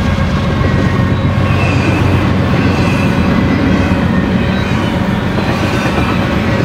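Double-stack container well cars of a BNSF freight train rolling past close by: a steady, loud rumble and clatter of steel wheels on the rails.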